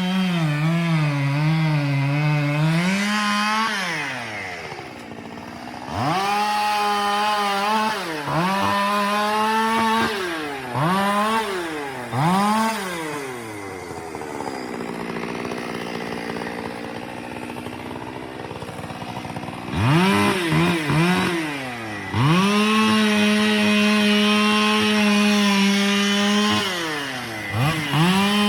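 Gas chainsaw held at full throttle through long cuts, dropping to idle between them and revved up and down several times in quick blips.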